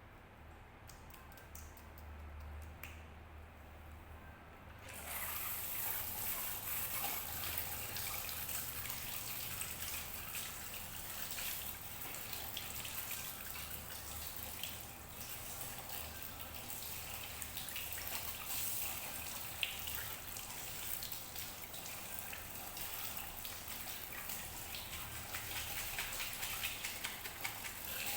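Water running steadily from a tap, switched on about five seconds in with a sudden start and spattering with small splashes; the first seconds hold only a few faint clicks.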